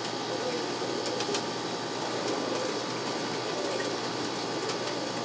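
Steady background noise, even and unchanging, with a couple of faint ticks a little over a second in.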